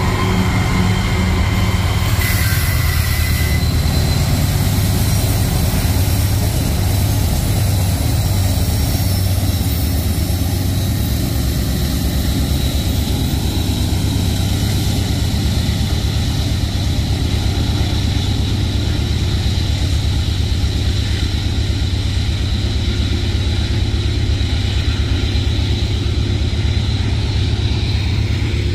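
Diesel freight train rolling by: a steady low rumble of locomotive engine and rolling cars.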